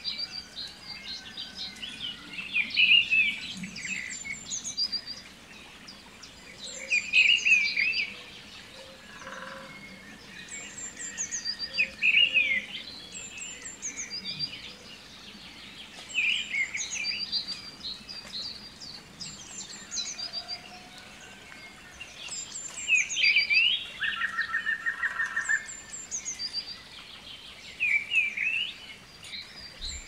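Birdsong: birds chirping in short high phrases that recur every few seconds over a faint steady background, with a brief rapid trill of lower notes about 24 seconds in.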